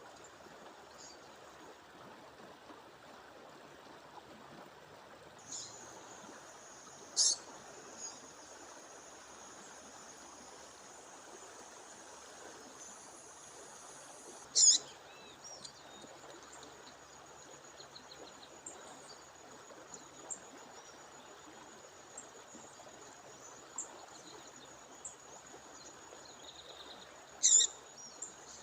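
Running water of a stream or waterfall, with a female songbird giving three loud, short, high calls, about 7 seconds in, about 15 seconds in and near the end, and a few fainter chips between. A thin, steady high-pitched tone sounds from about 5 seconds in onward.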